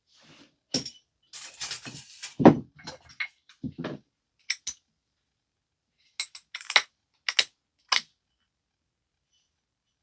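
A stone biface being knapped: sharp clicks and knocks as the tool strikes and flakes come off, with a brief scraping near the start. The loudest knock is about two and a half seconds in, then a few separate clicks follow before it goes quiet.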